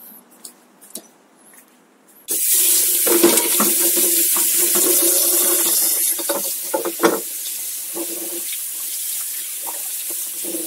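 Water running hard from a tap, turned on suddenly about two seconds in, with knocks and clatter of bike parts being rinsed under the stream.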